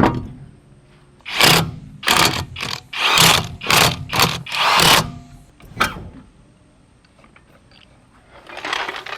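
Socket ratchet working a wheel's lug nuts, a run of about seven short ratcheting bursts in quick succession, then one more after a pause.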